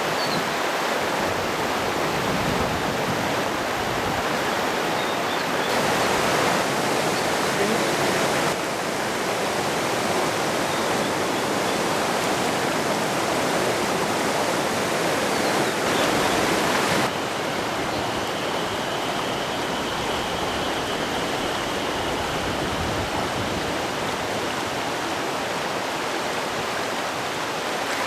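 Mountain stream rushing over rocks: a steady noise of running water that jumps abruptly louder or softer a few times.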